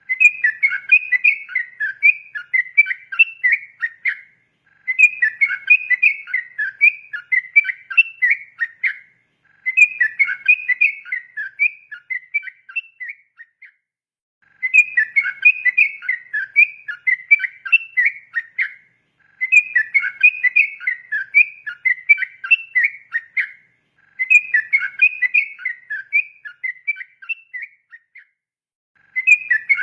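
Yellow-vented bulbul (trucukan) singing in long, rapid chattering phrases of fast bubbling whistled notes, each phrase about four seconds with a brief pause between, about six phrases in all.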